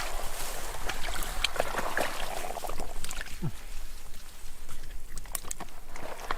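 Water splashing and sloshing unevenly, with scattered sharp splashes and clicks.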